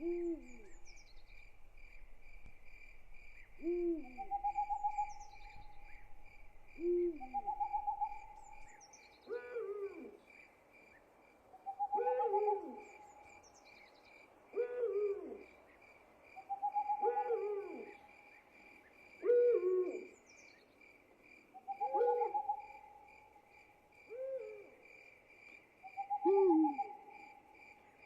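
Owls hooting in a repeating series of short low hoots that drop in pitch, about one every two and a half seconds, with longer, higher held notes between them, over a steady pulsing chorus of crickets.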